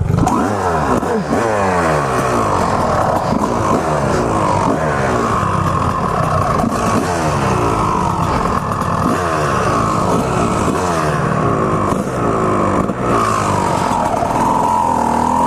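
Honda CR250R two-stroke dirt bike engine being ridden hard, its pitch climbing and dropping again and again as the throttle is opened and closed.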